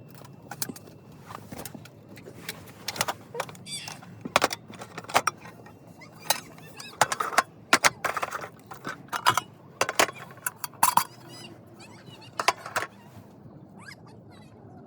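Irregular clinking and clattering of small hard objects being handled, some with a short ring, busiest through the middle and thinning out near the end.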